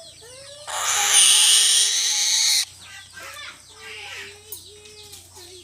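Chickens clucking and crooning in low, wavering notes. About a second in, a loud harsh hiss cuts in for about two seconds and stops suddenly.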